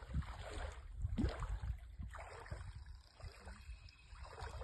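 Irregular water splashing and sloshing with low thumps, busiest over the first two seconds, then quieter.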